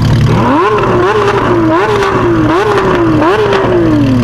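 A car engine revved in a series of quick blips: its pitch jumps up sharply and sags back about five times, then falls away near the end, over a steady low hum.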